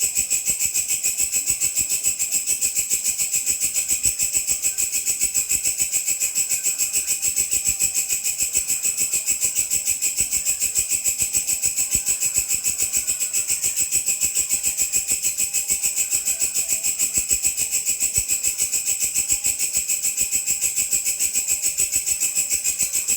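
Grasshopper stridulating in a continuous, high-pitched, even rasping trill, about five pulses a second.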